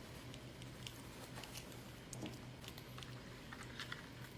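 Faint close-up chewing and wet mouth sounds of someone eating, scattered small clicks over a steady low hum.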